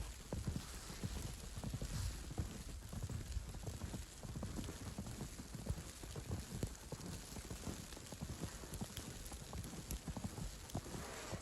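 Footsteps crunching in snow, a run of uneven crackles and soft thuds over a steady outdoor hiss.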